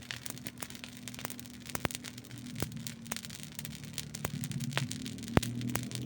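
Campfire crackling, with frequent sharp pops and snaps of burning wood and one louder pop near the end. A low steady hum lies underneath and grows louder toward the end.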